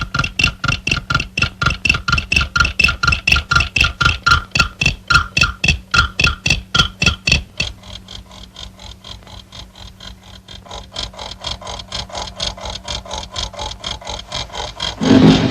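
Cartoon soundtrack of fast, even ticking, about four ticks a second, each tick carrying a high ringing tone. The ticking turns fainter about seven and a half seconds in, and a short louder sound comes near the end.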